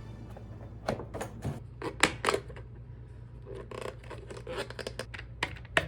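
Takeaway food being unpacked by hand: plastic packaging rustling and containers and lids clicking and scraping in a string of sharp knocks, over a steady low room hum.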